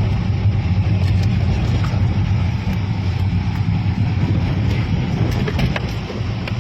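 Car on the move: steady low engine and road rumble, with a few faint clicks about five seconds in.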